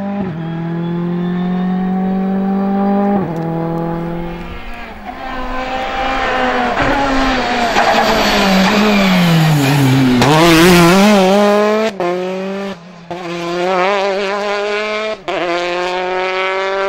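Rally car engines at full race pace, pulling up through the gears with sharp shift breaks. Midway there is a burst of tyre and gravel noise, and the engine note dips about ten seconds in, then climbs again.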